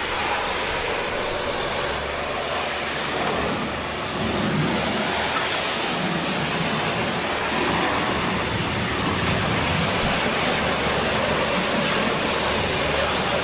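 Pressure-washer jet spraying water onto a car, a steady hiss that gets a little louder about four seconds in.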